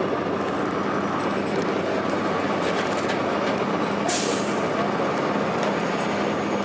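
A 2002 Blue Bird transit bus's Cummins ISC diesel engine and Allison B400R transmission running, heard from on board as a steady drone of engine and road noise. About four seconds in there is a short, sharp hiss of released air from the bus's air system.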